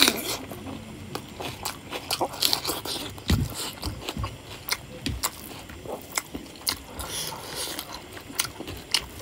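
Mouth sounds of eating: chewing and lip-smacking on a mouthful of rice and pork curry, with many short wet clicks. There is a few dull low thumps between about three and five seconds in.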